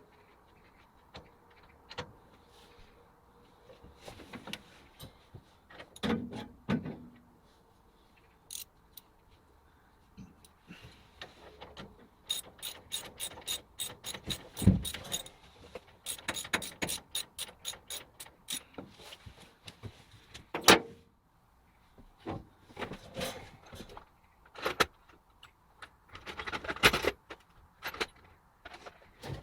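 Irregular metallic clicks and knocks of machine parts being handled, with two quick runs of rapid ticking in the middle and a few louder single knocks.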